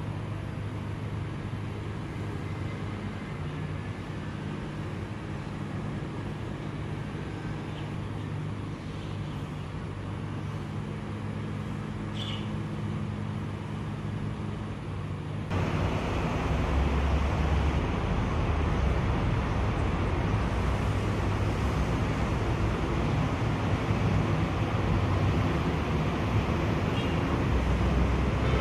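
Steady road traffic and vehicle engine hum; about halfway through it cuts suddenly to louder, rougher road noise.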